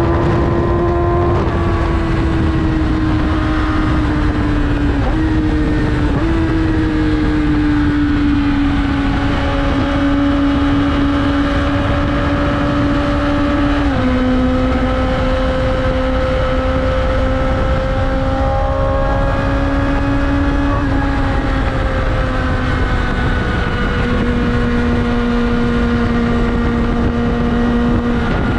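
Yamaha R6 sportbike's inline-four engine running at highway cruising speed, its pitch drifting and stepping down a few times as the throttle and gears change, over steady wind and road noise.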